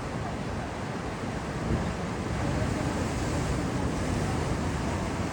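Surf of a rough, stormy sea breaking, with wind buffeting the microphone; it grows louder about two seconds in.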